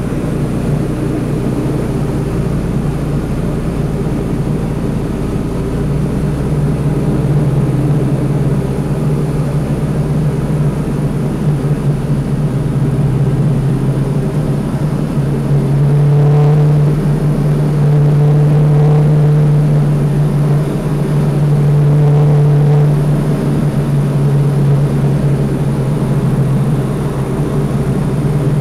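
Diamond DA20 Katana's engine and propeller droning steadily, heard in the cockpit, growing louder for a second or two three times past the middle.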